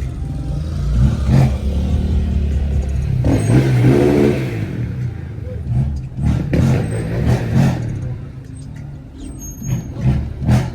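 Car engines running and revving, with a stronger rev about three to four seconds in.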